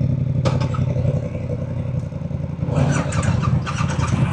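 Motorcycle engine running steadily at idle, with a sharp click about half a second in and a busier, rattly noise joining from near the three-second mark.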